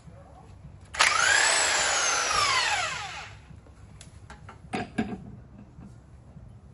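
A power drill runs in one burst of about two seconds, its whine rising briefly and then falling away as it spins down, followed by two short knocks.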